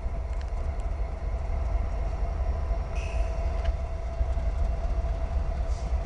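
GE diesel freight locomotives passing close by: a steady low engine rumble with a constant whine over it and a few light clicks from the wheels.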